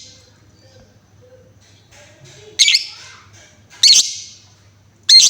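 Female lovebird giving three short, loud, high-pitched calls about a second and a half apart.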